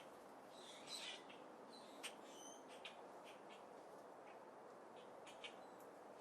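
Faint birds chirping: scattered short, high tweets, a few close together about a second in and again between two and three seconds, over a steady background hiss.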